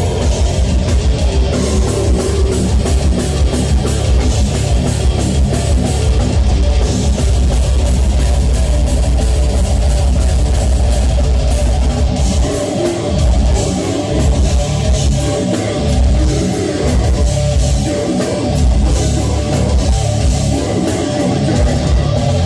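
Live heavy metal band playing: distorted electric guitars, bass and drum kit with a heavy low end. In the second half the low end stops and starts in short breaks, a stop-start riff.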